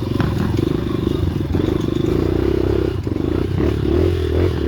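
Dirt bike engine running under throttle while riding, its pitch wavering up and down in the second half.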